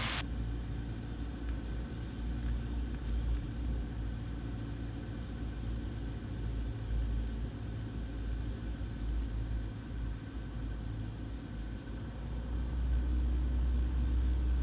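Cessna 172 engine and propeller drone heard in the cabin through the intercom audio, a steady low hum with faint engine tones. It grows louder near the end.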